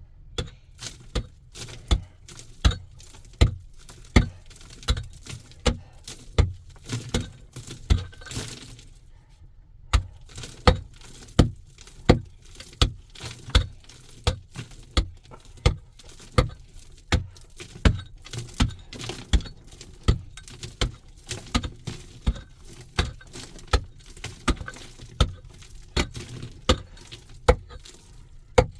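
Steady series of sharp knocks or strikes, about three every two seconds, with a short pause about nine seconds in.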